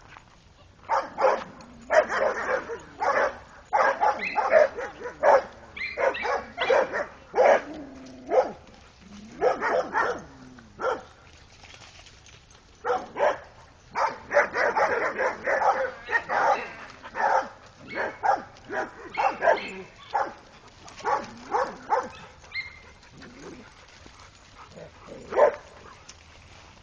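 Several dogs barking in repeated bursts of short, sharp barks, some overlapping, with brief lulls. It is territorial barking at a neighbor's dog.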